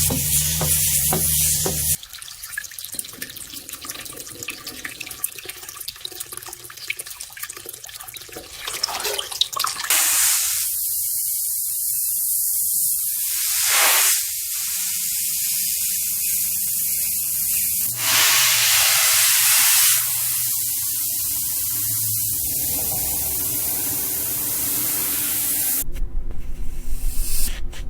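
Pressure washer jet spraying water on a motorbike: a loud, steady hiss that starts about ten seconds in and surges in strength several times. Before it comes a quieter crackling fizz.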